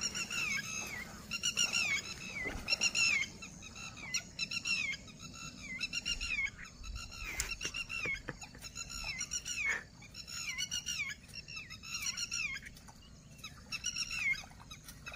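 A bird calling over and over in short, high, down-slurred notes, a few a second with short pauses between. A few faint clicks come in the middle.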